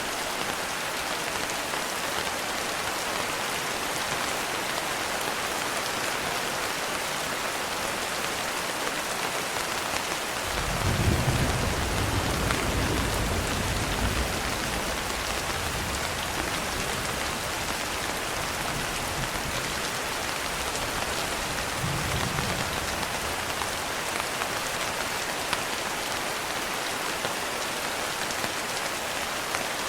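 Steady heavy rain, with a low rumble of thunder swelling about ten seconds in and fading over several seconds, and a fainter rumble later.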